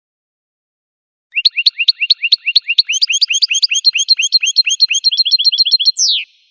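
Goldfinch song: a run of quick, rising whistled notes, about six a second, that speeds into a faster trill and ends on a single falling note. It starts after a second and a half of silence.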